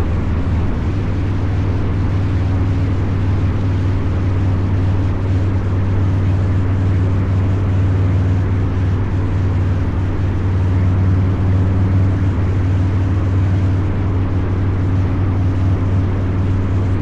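Harley-Davidson Low Rider's 129 cubic inch V-twin, with a Two Brothers Racing exhaust, running at a steady engine speed on the road. It is a deep, even exhaust note that holds its pitch, with no big revs.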